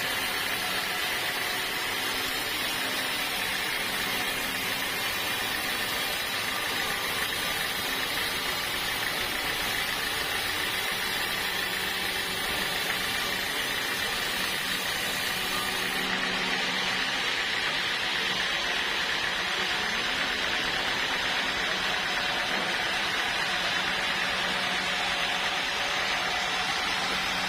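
Sawmill machinery running steadily with a constant whir and hum. The highest hiss drops away a little past halfway.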